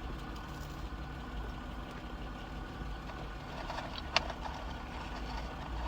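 Steady low hum of an idling car engine, with one short click about four seconds in.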